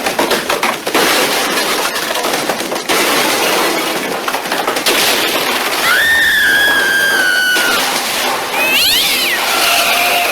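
A cat yowling: a long held yowl about six seconds in that sags slightly in pitch, then a short squeaky wail near nine seconds. The yowling comes after a few seconds of noisy clatter.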